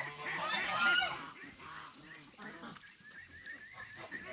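Geese honking, loudest in about the first second, then quieter, shorter calls for the rest of the time.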